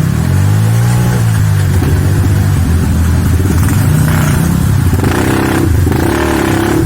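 Trail motorcycle engine running and revving, its pitch falling and rising as the throttle is opened and closed.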